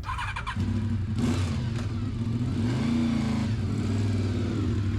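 Motorcycle engine running. The engine comes in about half a second in, and its revs rise and ease back once near the middle.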